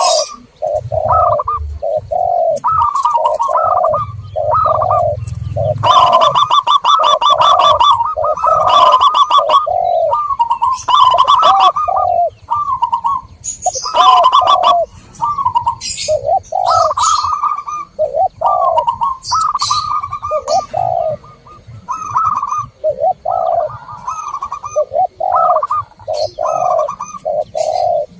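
Zebra doves and spotted doves cooing over and over in overlapping phrases, some notes rolled into quick trills, mixed with short high chirps from other birds.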